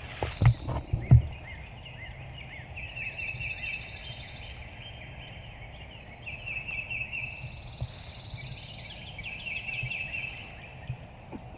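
Wild turkey gobbling three times, each a rattling call about a second long, with songbirds trilling higher up. Two low thumps near the start are louder than the calls.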